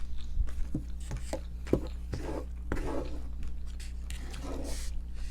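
Close-miked chewing and mouth sounds of someone eating: irregular soft clicks and wet smacks over a steady low hum.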